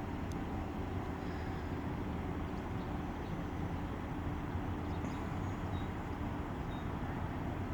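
Steady low outdoor background rumble with no sudden events, faint high chirps now and then on top.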